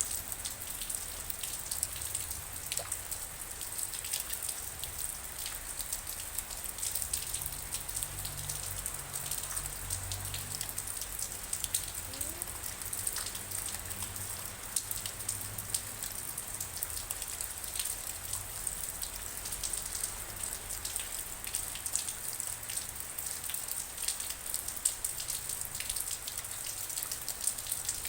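Steady rain with many separate drops striking close by, over a faint low rumble.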